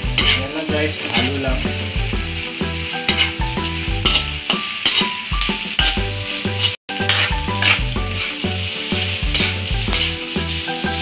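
Sliced meat and onions sizzling as they fry in a large aluminium wok, stirred and scraped with a spatula, over background music with a repeating bass line. The sound cuts out completely for a moment about seven seconds in.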